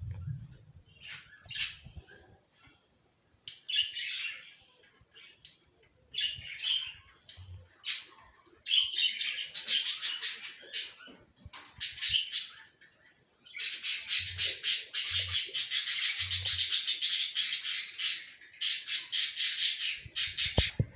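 Budgerigar chattering in short, scattered bursts, then in a fast, continuous run of rapid notes over the last third.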